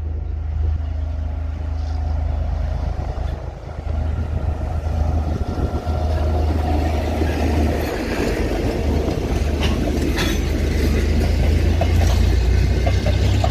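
Train running past with a steady low diesel engine rumble and wheel-on-rail noise, growing louder toward the end, with a few knocks about ten seconds in.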